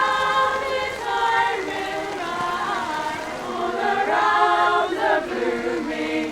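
A choir singing a cappella, several voices together holding and changing notes.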